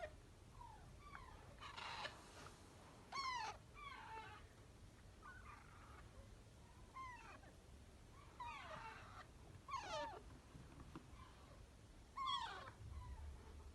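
Parrot chicks giving begging calls: short squawks that slide downward in pitch, repeated every second or two, some harsh and raspy.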